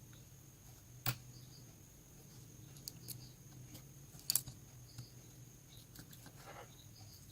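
Small clicks and taps of hand tools on a mobile phone's parts: a sharp click about a second in, a double click a little after four seconds, a few fainter ticks and a brief rustle near the end, over a steady low hum.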